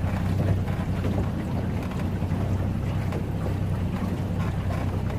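Boat engine running steadily with a low, even hum, with wind buffeting the microphone.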